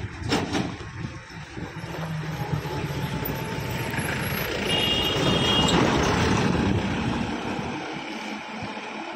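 Heavy truck driving past on a road, its engine and tyre noise growing louder to a peak about six seconds in and then fading away. A brief high tone sounds near the middle.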